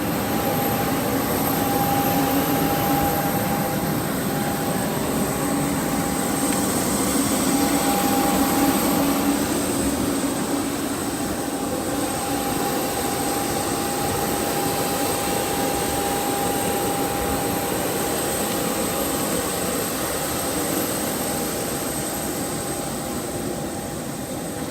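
Airbus A319's IAE V2524 turbofan jet engines running steadily: a loud rushing roar with a high whine above it, easing a little near the end.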